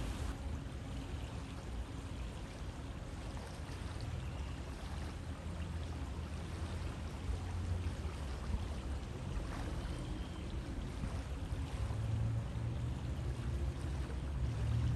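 River water flowing steadily, a continuous rushing noise with most of its weight in the low range.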